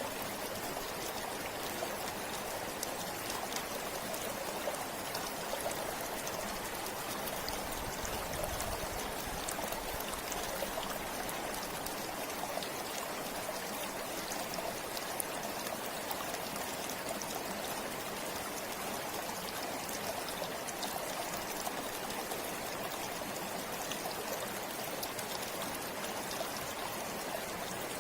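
A forest river or stream flowing and splashing steadily over rocks, an even rushing with small scattered drips and trickles.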